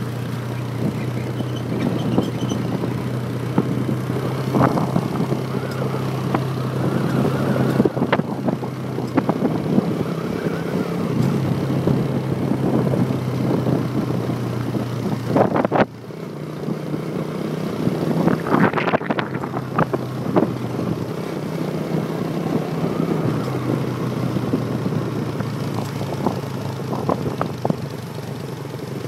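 Motorbike engine running steadily while being ridden, with road and wind noise and scattered clatter. The engine note steps up and down, and the sound drops off suddenly about halfway through before building again.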